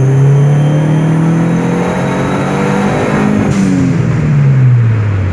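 Dodge SRT-4's turbocharged 2.4-litre four-cylinder engine, heard from inside the cabin, revving up under acceleration on regular 87-octane fuel. About three and a half seconds in there is a brief hiss, and the engine note then falls steadily as the car slows.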